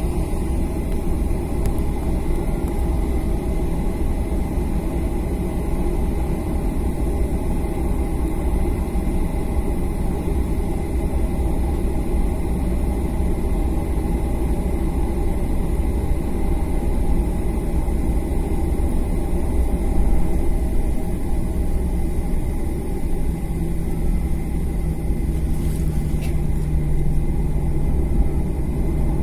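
Jet airliner engines running steadily: a constant rumble with a faint high whine. About two-thirds of the way through, a new steady low hum joins in.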